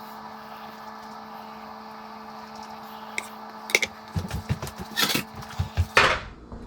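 Kitchen prep sounds of raw chicken being trimmed on a cutting board: a steady low hum for the first few seconds, then a few sharp clicks and a quick run of knocks and taps, with two brief scraping rustles near the end.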